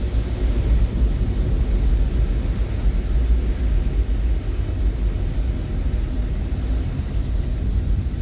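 Steady low rumble of a vehicle on the move, with a fainter even hiss above it.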